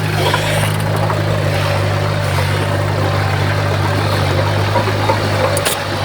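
Small bulldozer's diesel engine running steadily, with a short break and click near the end.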